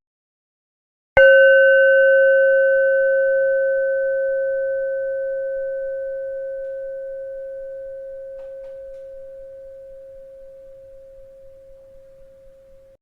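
A bell struck once about a second in, ringing with one clear, pure tone and a few faint higher overtones that fade slowly over about twelve seconds before cutting off.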